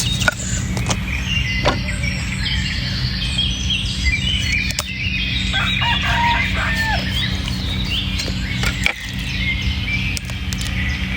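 Small birds chirping over a steady low hum, with a few sharp knocks scattered through.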